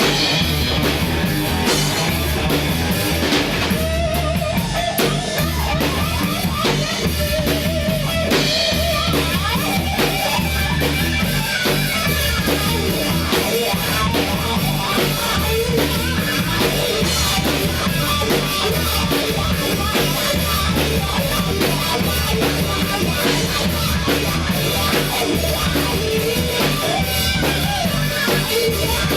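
Rock band playing: electric guitars over bass and a steady drum-kit beat.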